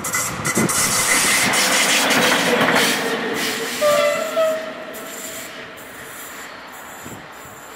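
Electric locomotive passing close by on the tracks, a loud rushing rumble of wheels on rail that fades as it pulls away. About four seconds in come two short horn notes, the second a little higher.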